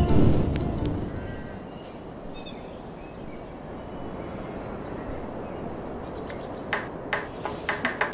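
Music fades out in the first second, leaving a soft ambient hiss with a few faint bird chirps. Near the end a run of sharp knocks starts.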